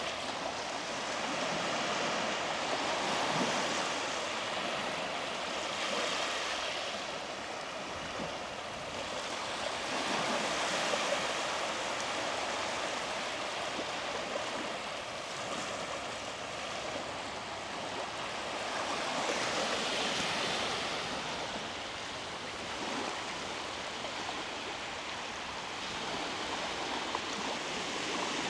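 Sea waves breaking and washing up on a beach, the surf swelling and easing every few seconds.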